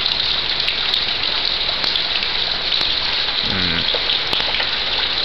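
Heavy, steady rain: a dense, even hiss of falling rain with scattered ticks of individual drops.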